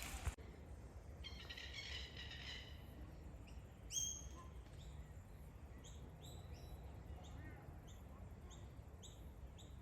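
Birds calling faintly outdoors: a brief warbling song, then one bird repeating a short, sharp high chirp about twice a second.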